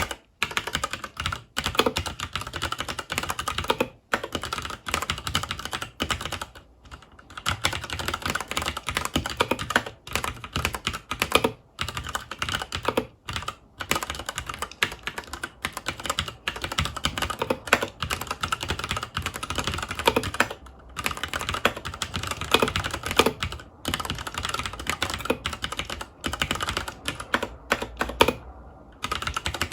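Fast continuous typing on a FILCO Majestouch 2 Hakua tenkeyless mechanical keyboard with Cherry MX Brown tactile switches: a dense run of key clacks, with a few brief pauses.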